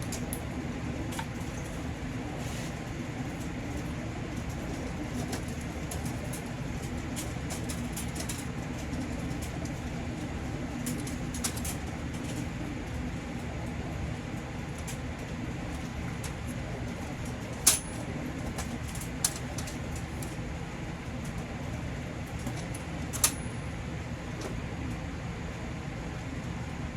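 Racing homing pigeons cooing over a steady low hum. Three sharp clicks fall in the second half.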